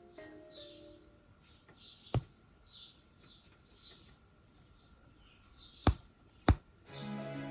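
Soft background music dies away, leaving a series of short high bird chirps and three sharp clicks, one about two seconds in and two close together near the end. Music starts up again just before the end.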